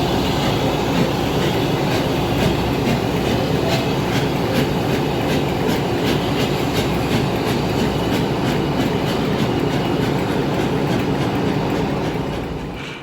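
Train rolling along the track: a steady rumble with the wheels clicking over the rail joints at a regular beat, fading away near the end.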